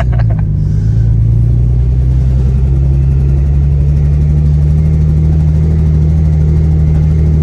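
Nissan 350Z's 3.5-litre VQ V6 running on a loud full exhaust, heard from inside the cabin. The engine note climbs a little about a second in, then holds steady.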